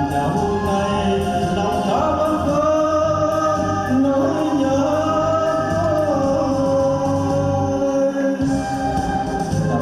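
Singing over amplified backing music, with long held notes that waver slightly in pitch.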